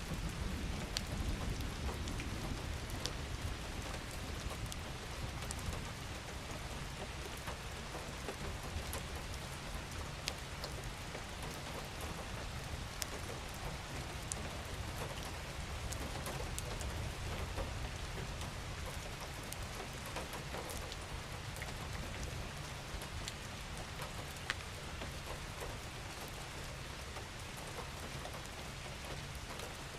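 Steady rain falling, with a dense patter of individual drops ticking through it. A deep low rumble runs underneath and is heavier for the first several seconds.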